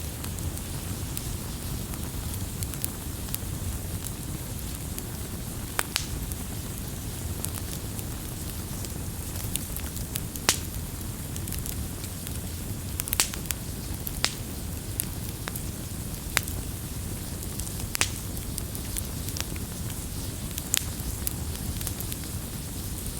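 Wood fire burning with a steady low rumble and irregular sharp crackles and pops from the burning wood, a dozen or so louder snaps scattered among fainter ticks.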